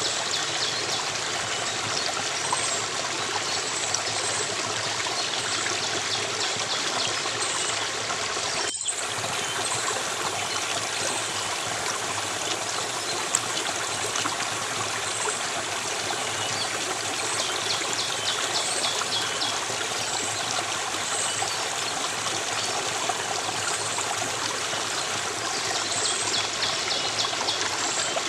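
Stream water running steadily, with a brief cut-out about nine seconds in.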